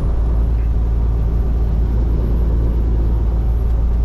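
Semi truck driving, heard from inside the cab: a steady low rumble of diesel engine and road noise.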